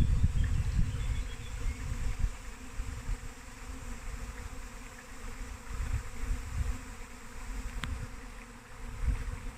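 Honey bee swarm buzzing: the hum of many bees in flight, loudest at the start, with a single short click about eight seconds in.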